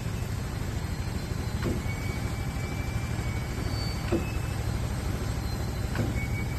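Worn sealcoat pump running with a steady low rumble and a short squeaking knock roughly every two seconds; the sound of a pump the owner thinks is on its last leg.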